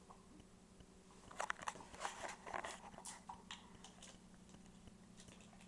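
Faint scattered clicks and crackles, clustered in the middle, over a low steady hum.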